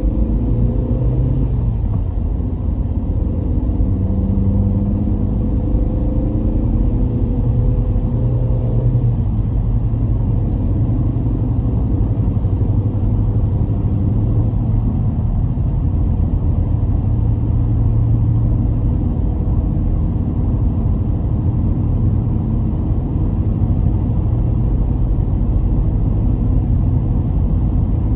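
A car driving, with steady engine and road rumble; the engine note shifts up and down over the first nine seconds or so, then settles into a steady low rumble.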